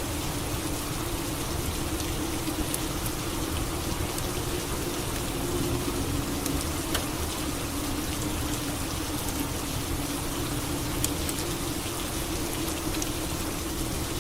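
Steady rain, with scattered sharp drip ticks and a low steady drone underneath.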